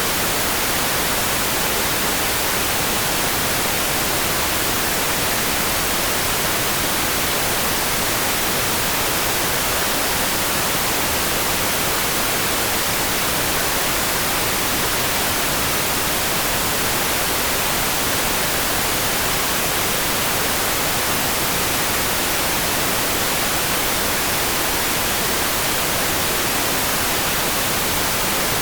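Steady rain noise: an even, hissing wash with no separate drops, thunder or changes, close to white noise.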